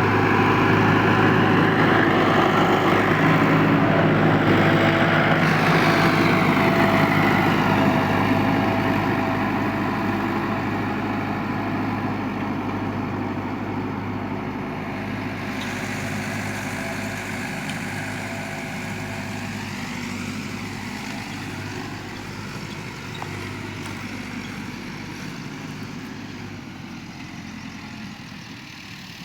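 Tractor engine running steadily, growing gradually fainter over about half a minute.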